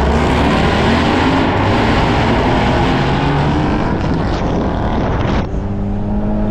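A car engine revving hard through a loud exhaust. About five and a half seconds in it drops to a steadier, lower note.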